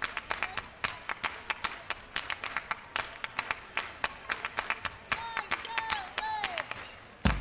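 Hand claps at a live concert, a quick steady rhythm of about five claps a second. A few short falling vocal whoops come about five seconds in, and a loud thump lands just before the end.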